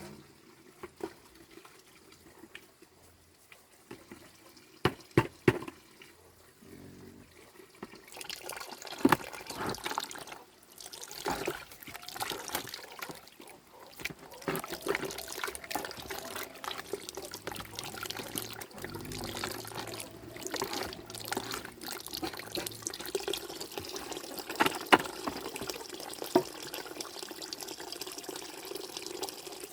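Water running and splashing, with many small clicks and knocks, starting about eight seconds in; before that it is mostly quiet apart from a few sharp knocks.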